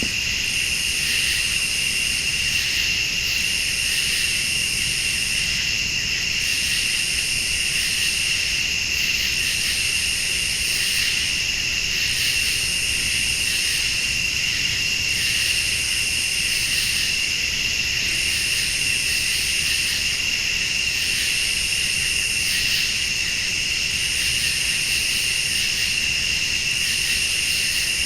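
Night chorus of crickets and late-summer insects: a steady, even trill, with a higher-pitched insect call that swells and stops about every three seconds.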